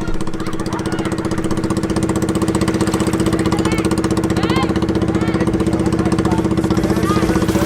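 Small engine running steadily at one constant pitch, slowly growing a little louder.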